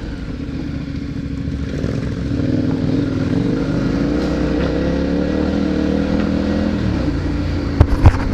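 Adventure motorcycle engine running steadily, its pitch dropping near the end, followed by a few sharp loud knocks.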